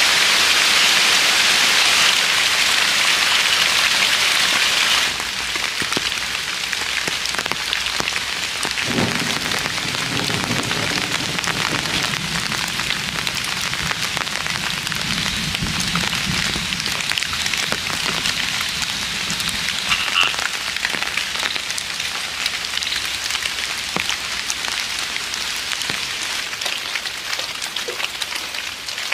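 Steady rain falling, an even hiss with scattered drip ticks. The hiss drops abruptly to a lower level about five seconds in, then carries on steadily.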